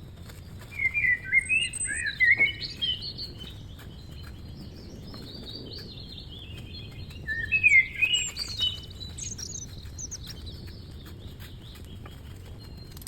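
Songbird chirping and twittering in quick bright phrases, loudest in two bouts about a second in and about seven seconds in, with softer twittering between.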